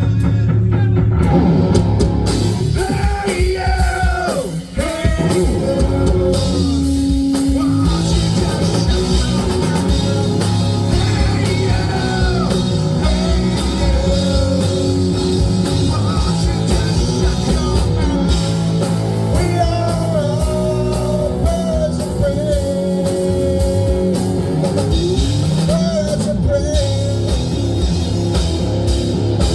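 A rock band playing live, with a sung vocal over guitar and drums.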